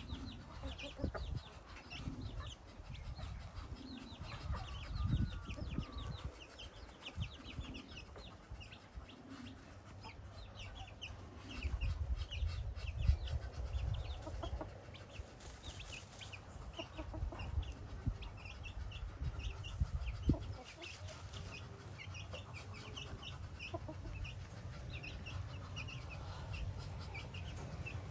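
Chickens clucking softly now and then, with many short high chirps throughout and bouts of low rumbling.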